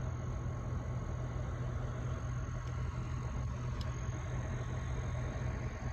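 Semi-truck's diesel engine running steadily, a low even rumble.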